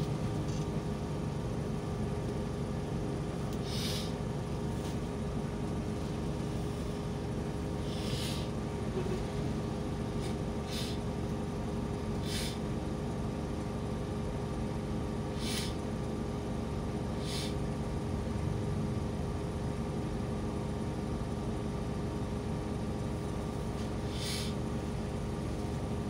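Steady low rumble of a vehicle's engine idling, heard from inside the cabin while stopped in traffic. A few short, sharp ticks come every few seconds over it.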